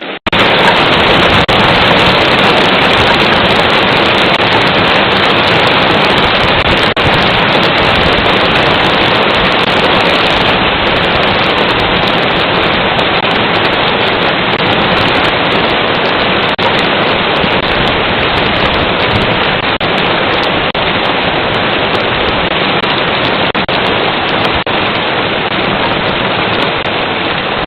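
Hail falling hard and without pause, a dense steady rattle with scattered sharper ticks of individual stones.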